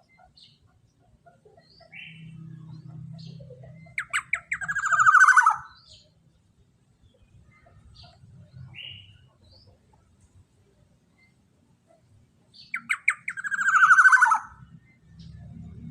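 Black-naped oriole (kepodang emas) calling: two loud calls about eight seconds apart, each a quick stutter of notes running into a falling harsh note. Faint chirps sound between them.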